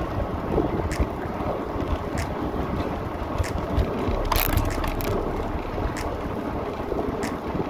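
Wind buffeting the microphone and rolling road rumble from a hybrid bicycle being ridden, with a light tick repeating about once a second.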